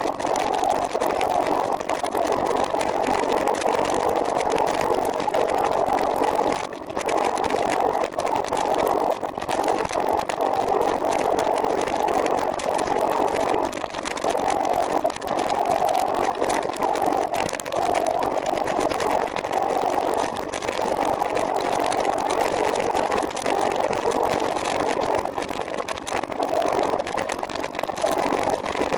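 Steady riding noise from a recumbent trike under way, a continuous rushing hiss of wind and rolling tyres that dips briefly about seven seconds in.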